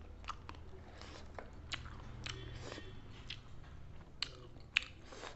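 Close-up eating sounds: someone chewing and biting into fried chicken and rice, with irregular sharp mouth clicks and small crunches. A low steady hum runs underneath.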